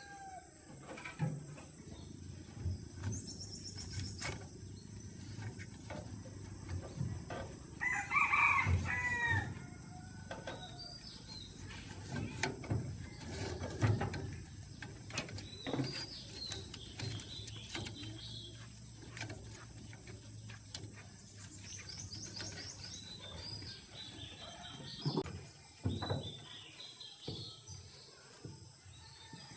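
A rooster crows once, about eight seconds in, over scattered knocks and thumps. Small birds chirp with quick repeated notes now and then.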